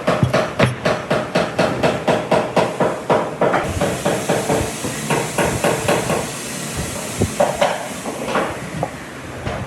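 Rapid, evenly spaced hammering, about four blows a second, in a woodworking shop. It stops about three and a half seconds in, giving way to a steady hiss with a few scattered knocks.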